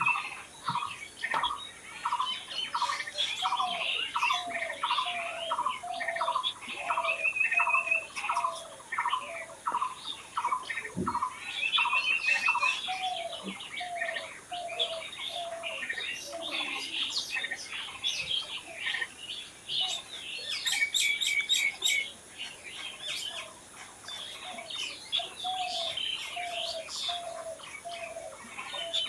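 Several wild birds singing and chirping together. One repeats a short note about twice a second, and short high rattling trills break in now and then.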